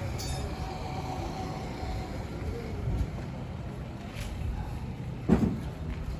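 A low, steady mechanical rumble, with a single sharp knock about five seconds in.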